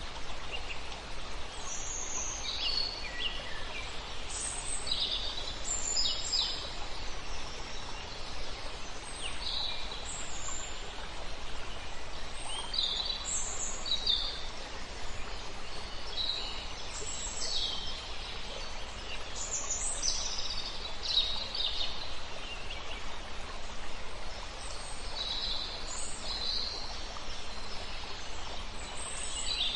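Several songbirds singing short, repeated chirping phrases over a steady rush of flowing river water.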